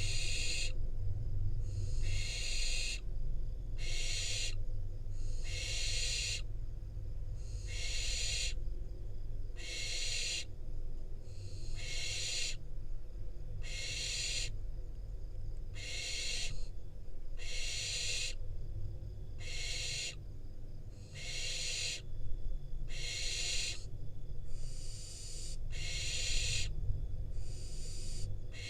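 Barn owl young in the nest box giving their rasping, hissing food-begging calls, one harsh hiss about every second without a break.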